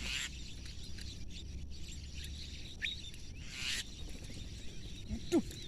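Outdoor rural ambience with scattered bird chirps and a faint insect hum, broken by two short rustling hisses. Near the end comes a brief call that glides downward.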